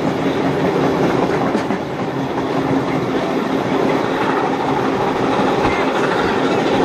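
Train carriage running along the line, heard from an open window: a steady rumble of steel wheels on the rails.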